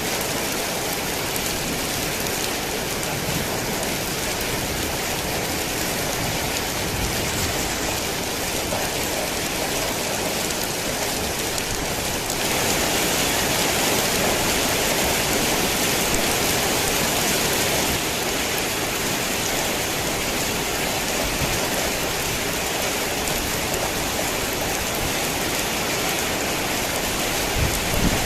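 Heavy rain falling steadily, a dense even hiss of drops; it swells louder for several seconds around the middle before settling back.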